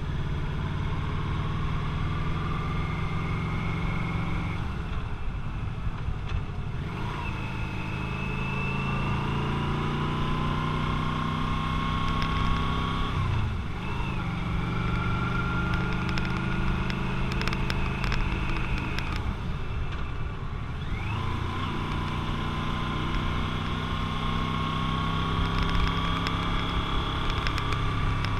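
Motorcycle engine heard from on the bike, under way: its pitch climbs steadily for several seconds, drops sharply, and climbs again, three times over.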